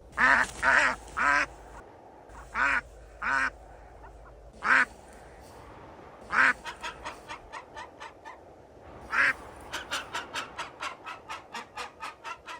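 A bird calling: a few harsh, drawn-out calls, then a fast run of short clipped calls, several a second, through the second half.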